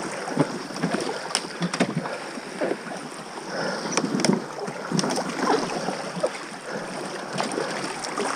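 Paddles dipping and splashing in river water in uneven strokes, with a few sharp knocks against the boat.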